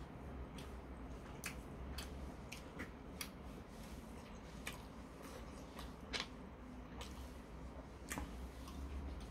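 A man chewing a mouthful of spicy stir-fried pork and rice, with irregular soft wet mouth clicks and smacks, roughly one a second, over a faint steady low hum.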